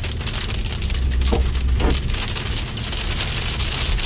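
Heavy rain pattering densely on a car's windscreen and roof, heard from inside the cabin over the low rumble of the moving car.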